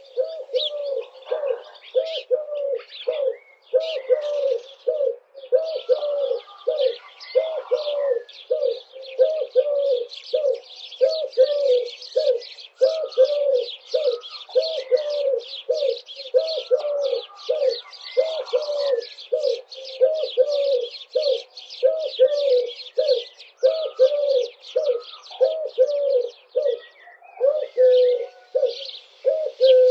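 Birds calling: a long, even series of low hooting notes, about two a second, under busy high-pitched chirping.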